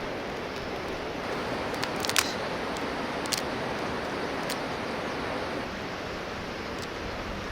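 Steady rushing outdoor noise with a few sharp clicks or snaps: a quick cluster about two seconds in, the loudest moment, then single ones spaced out after it.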